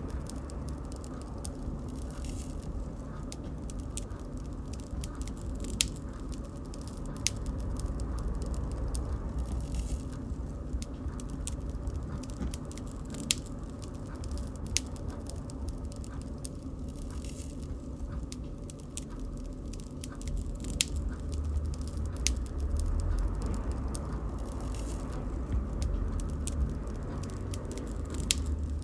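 Wood bonfire crackling, with sharp irregular pops and snaps over a steady low rumble.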